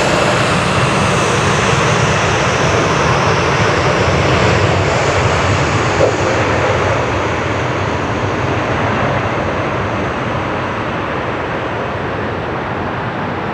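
Jet engine noise from a landing Boeing 777F freighter, with GE90 turbofans, a steady loud rush that slowly fades as the aircraft moves away. There is a brief click about six seconds in.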